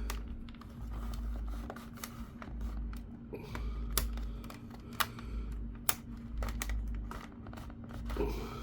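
Small, sharp plastic clicks and taps as a laptop's plastic case is handled and worked at its clips, with several distinct clicks spread through, over a steady low hum.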